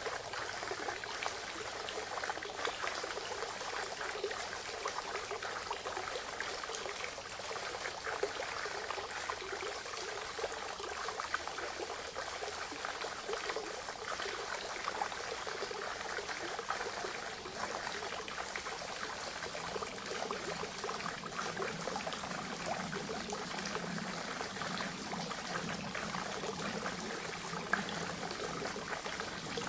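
Spring water trickling and splashing steadily into a forest pond, with a deeper water sound filling in about two-thirds of the way through.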